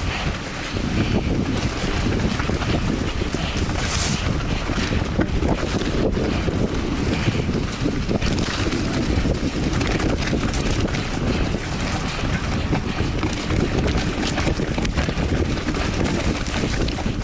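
Wind buffeting the microphone over a steady low rumble of tyres on a wet dirt trail, with frequent short clatters and knocks from a Polygon Siskiu T8 mountain bike rattling over bumps.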